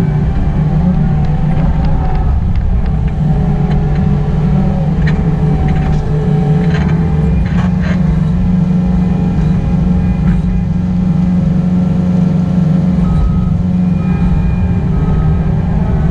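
Excavator diesel engine running steadily under work, with a few short metallic clanks through it.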